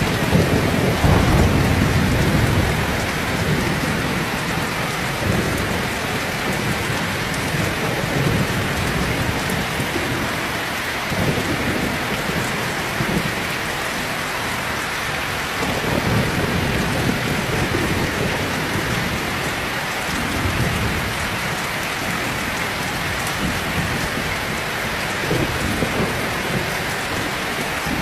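Heavy rain pouring steadily, with low rolling thunder rumbling again and again underneath, loudest in the first couple of seconds.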